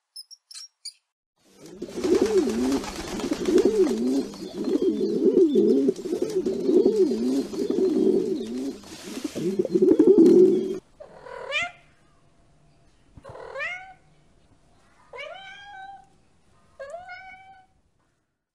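A few faint high squeaks, then a flock of rock pigeons cooing over and over, with a hiss of background noise, for about nine seconds. This cuts off abruptly and is followed by a cat meowing four times.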